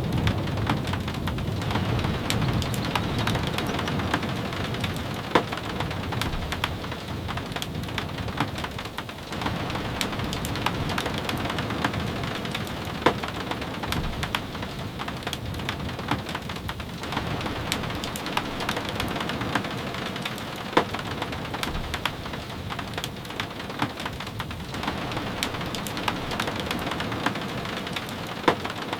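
Steady rain falling, with many scattered sharp ticks of drops striking a surface and a few louder taps. A low rumble sits under the rain in the first few seconds.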